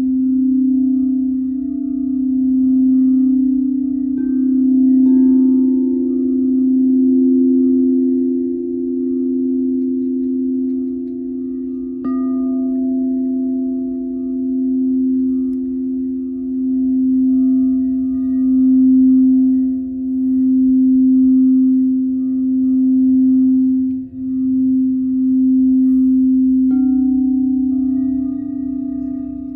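Singing bowls ringing in long, steady tones that pulse and waver. A higher bowl joins about four seconds in, a bowl is struck about twelve seconds in, and the tones shift again near the end.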